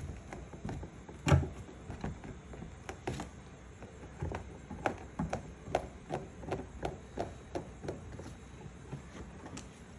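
Hand-tool work on a truck door panel: one sharp knock about a second in, then a run of light clicks, about two a second.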